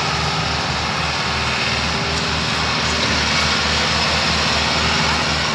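Tractor engine running steadily with a regular low throb.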